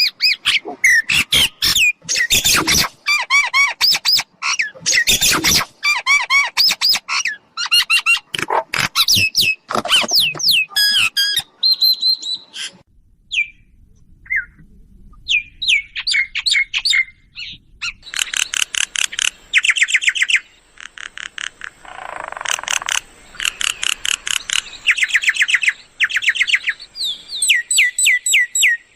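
Mynas calling: a dense run of varied whistles, chirps and harsh squawks, a short lull in the middle, then fast repeated chattering notes. A brief noisy rush comes about two-thirds of the way in.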